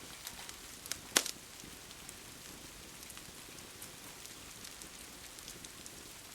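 Steady rain hiss with a crackling wood fire: scattered small pops and one sharp, loud crack a little over a second in.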